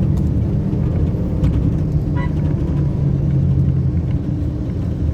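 Motor vehicle driving along a road: a steady low engine drone and road rumble.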